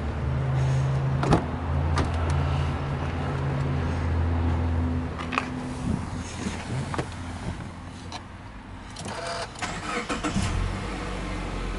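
Subaru Legacy Touring Wagon 2.5i's EJ25 flat-four being cranked by the starter about nine seconds in, catching and settling into a steady idle near the end. Before that there is a steady low hum and a few sharp clicks.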